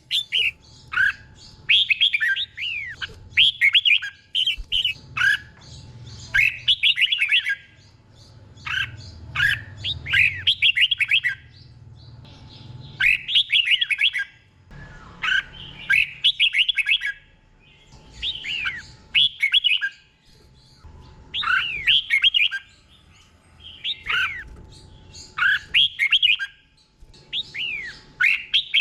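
Red-whiskered bulbul singing: short, bright, warbled whistle phrases repeated over and over with brief pauses between them. This is the 'doubled' song style that keepers play to caged bulbuls to copy.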